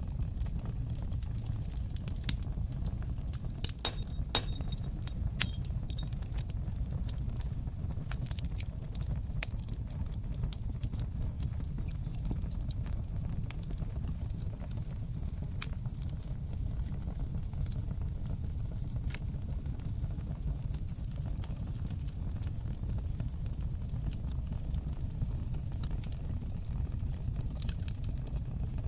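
Fire burning in a fireplace: a steady low rumble of flames with scattered crackles and pops, the sharpest pop about five and a half seconds in.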